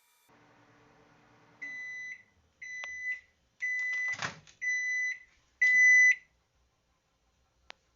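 Microwave oven at the end of its heating cycle: a faint running hum stops, then five steady beeps about a second apart. A knock sounds during the third beep and a short click comes near the end.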